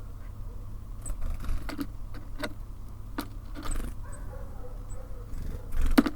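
Birds feeding at a bird feeder: irregular sharp taps and knocks of beaks and claws on the feeder, the loudest near the end, with a few faint high chirps over a steady low rumble.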